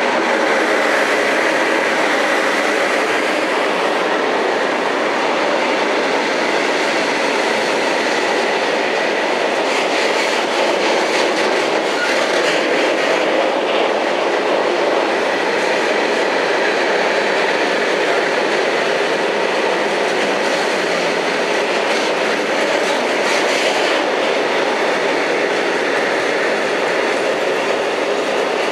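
Freight train passing at speed: the wagons' wheels rumble steadily on the rails, with a run of clicks over the rail joints around the middle.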